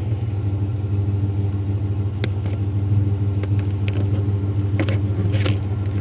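Truck engine running steadily at an unchanging pitch, with a few short sharp clicks and knocks over it.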